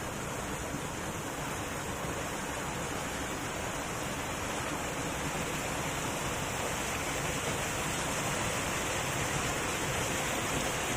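River water flowing and rushing steadily over its bed, growing slightly louder toward the end.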